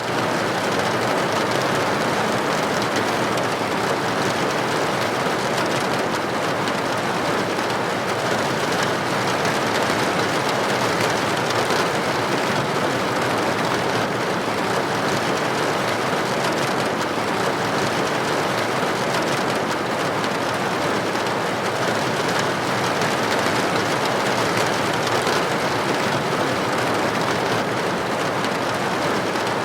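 Steady rain with droplets hitting a building window: a dense, even hiss that does not let up.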